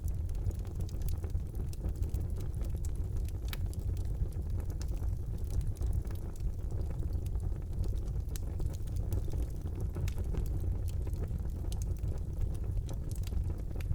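Wood fire burning in a fireplace: a steady low rumble of the flames with many irregular sharp crackles and pops from the burning wood.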